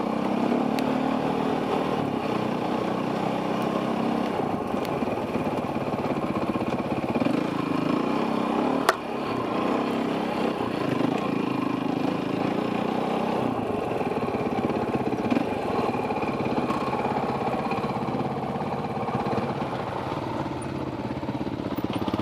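Enduro dirt bike engine running on a trail with changing throttle, its pitch rising and falling, heard from a helmet camera. A single sharp knock comes about nine seconds in.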